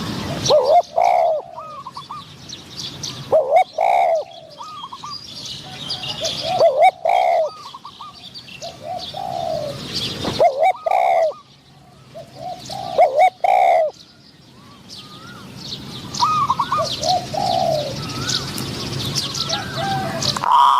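Spotted doves cooing, one phrase after another every few seconds, with smaller birds chirping more faintly.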